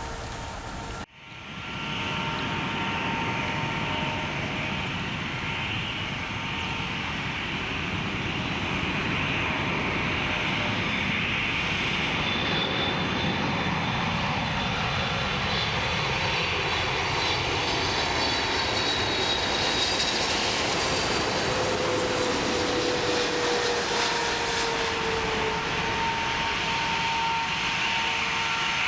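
Jet airliner passing low overhead: a loud, steady rush of engine noise with a high whine, and a tone that slowly falls in pitch in the second half.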